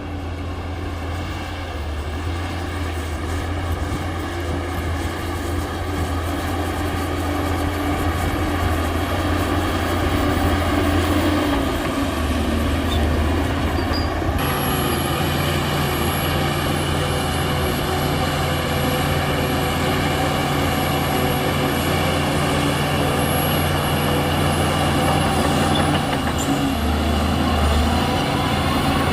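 Heavy Shantui bulldozer's diesel engine running steadily under load, a deep even drone. Its tone shifts abruptly about halfway through, and a thin high whine sits above it from then on.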